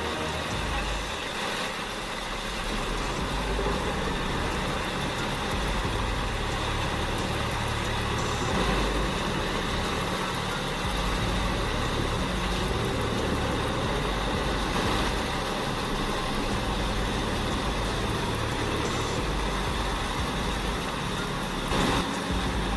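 Heavy diesel machinery running steadily under load, a continuous engine rumble and mechanical noise, with a single sharp knock near the end.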